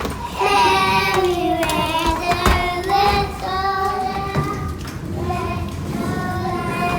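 Small children singing, holding long drawn-out notes.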